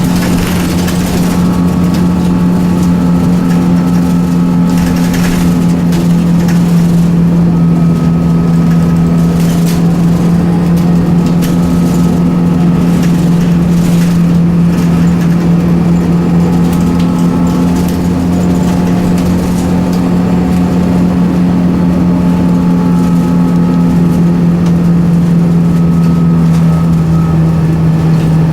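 Scania L94UB bus running steadily, its 9-litre six-cylinder turbocharged CNG engine and automatic driveline giving a loud, even hum that holds one pitch throughout.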